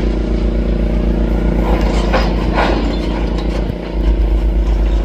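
Demolition excavator's diesel engine running steadily, with rough crunching and clatter from its crusher attachment breaking up the building about two seconds in.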